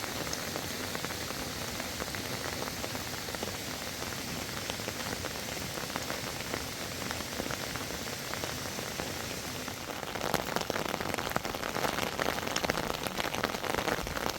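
Steady rain falling, which turns heavier about ten seconds in, with many distinct drops striking a surface.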